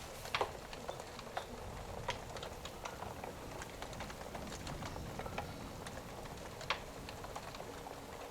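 Wood fire crackling, with irregular sharp pops (the loudest about half a second in and again near the end), over a steady hiss of rain.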